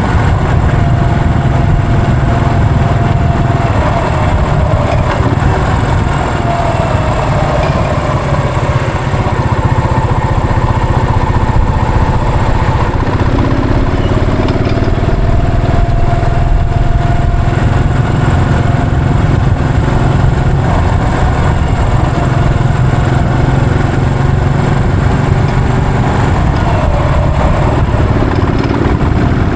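Yamaha SR400's air-cooled single-cylinder four-stroke engine running as the motorcycle is ridden, its pitch rising and falling over a few seconds at a time with changes in engine speed.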